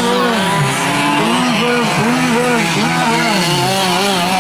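Several 5th-scale gas RC trucks' small two-stroke engines racing, each revving up and down in quick overlapping rises and falls as they throttle on and off around the track.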